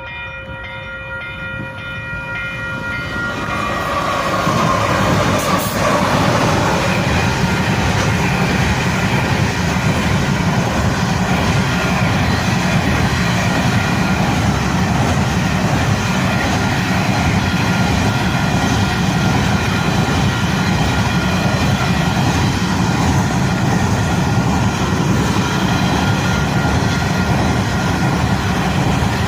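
Coal train passing at speed: the locomotive's horn chord sounds for about the first three seconds, a tone falls in pitch as the locomotives go by, then a long string of coal wagons rolls past in a steady rumble and clatter of wheels on rail.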